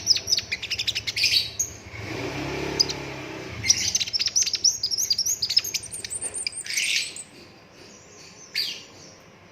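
Sunbird (kolibri raja) singing a fast 'rol tembak' song: dense runs of sharp, quick high chirps. A short pause comes about two seconds in, then a longer run, and one lone call near the end.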